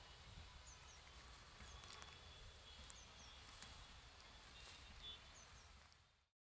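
Near silence: faint outdoor ambience with a few short, faint, high chirps from small birds, several in pairs. The sound cuts out completely about six seconds in.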